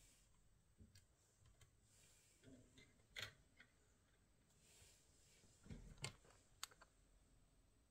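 Near silence with a few faint, short clicks and taps, the clearest about three seconds in and a small cluster around six seconds in.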